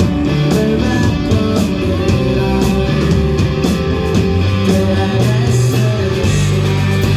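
Live rock band playing an instrumental passage without vocals: guitars over bass and a steady drum beat.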